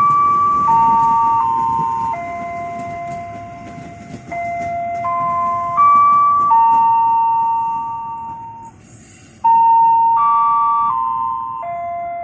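Railway station loudspeaker chime: a short melody of bell-like notes, each struck and fading, in falling phrases played twice with a brief pause between. A low rumble runs underneath.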